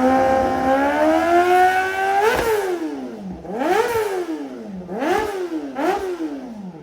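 Kawasaki ZX-4RR's inline-four revving through an SC Project exhaust: one long climb in pitch for about two seconds, a sharp drop, then three quick blips of the throttle.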